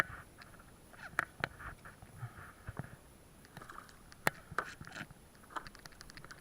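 Small water splashes with scattered light knocks and clicks from a kayak, irregular and short.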